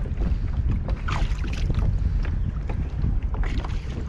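Wind buffeting the microphone in a steady low rumble, with scattered short clicks over it.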